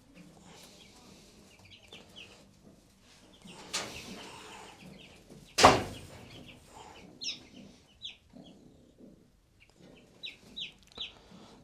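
Newly hatched chicks peeping in short, high chirps that come in scattered runs. A single sharp knock about halfway through is the loudest sound.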